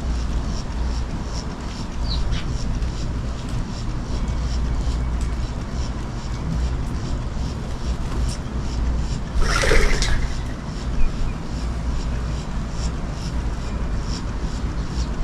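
Steady rainstorm noise with a low rumble, and a short, louder rush about ten seconds in.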